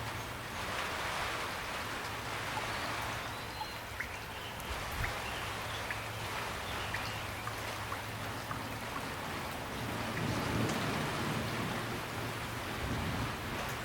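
Steady rain, with individual drops ticking sharply against a surface. A steady low hum runs underneath, and a low rumble swells about ten seconds in.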